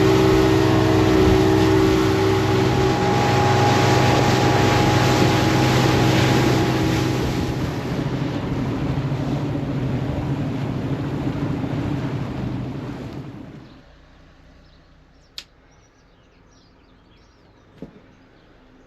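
Boat engine running steadily under a rushing noise, fading out about two-thirds of the way through; then it is much quieter, with two short sharp clicks.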